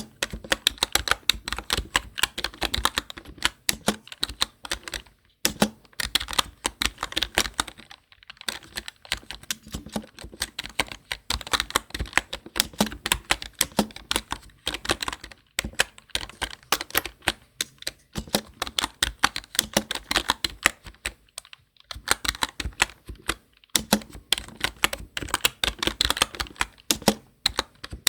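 Fast typing on a computer keyboard: a dense run of key clicks, broken by short pauses about five, eight, twenty-two and twenty-four seconds in.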